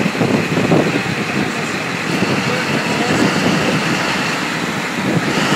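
Cat 789C haul truck's 3516B 16-cylinder, quad-turbocharged diesel engine running steadily.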